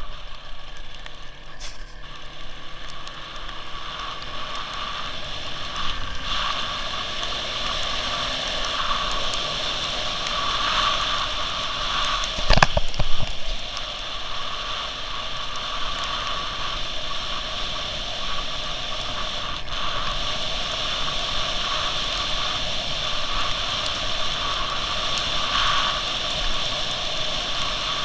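WSK 175 two-stroke single-cylinder motorcycle being ridden, heard from an onboard camera with steady road and rain noise, the engine note rising and falling in the first few seconds. A louder knock or jolt about twelve seconds in.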